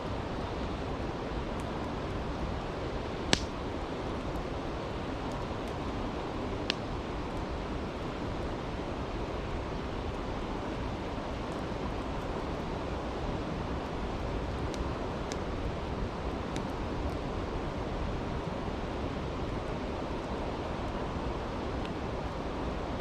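Steady rushing of a brook with a campfire crackling over it: a few sharp pops, the loudest about three seconds in, another a few seconds later and some fainter ticks later on.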